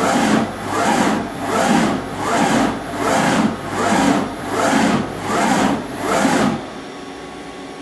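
Brand 850 NE CNC surface grinder grinding in an even rhythm of about three passes every two seconds, each pass a rasping surge as the wheel runs across the work on the reciprocating table. The grinding stops about six and a half seconds in, leaving the machine's steady running hum.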